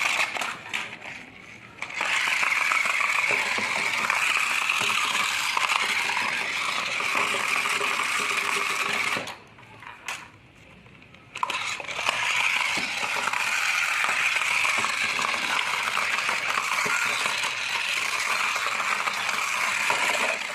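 A battery-powered toy's small motor and plastic gears running with a steady rattle. It drops away briefly about a second in and again for about two seconds near the middle.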